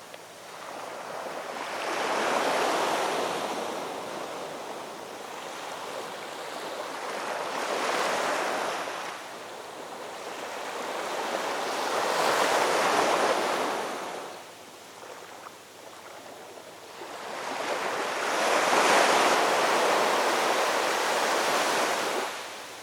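Ocean waves surging and ebbing in four swells of surf, about one every five seconds; the last swell is the loudest and longest.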